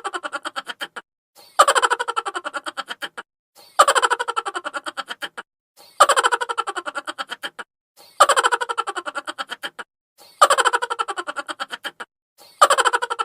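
Sped-up, high-pitched chipmunk-style laugh: a rapid run of 'ha' pulses that starts loudest, falls in pitch and fades out. The same laugh repeats as a loop about every two seconds, six times over.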